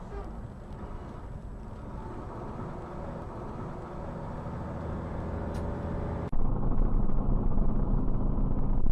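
Vehicle engine and road noise, steady, with the engine tone slowly rising. A little over six seconds in it cuts abruptly to a louder, deeper rumble.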